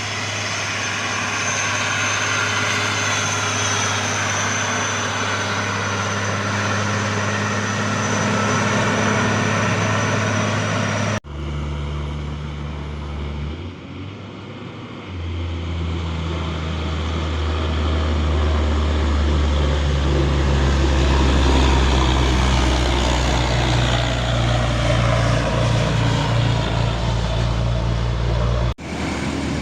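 Heavy truck's diesel engine running steadily, the engine note changing abruptly twice where the shots are cut.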